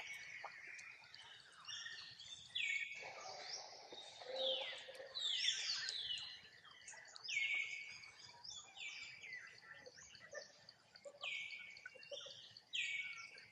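Birds calling: a long series of short whistled notes, each sliding downward in pitch, coming about one or two a second and sometimes overlapping.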